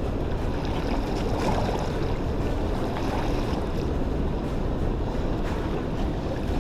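Wind buffeting the microphone over a steady wash of rushing water.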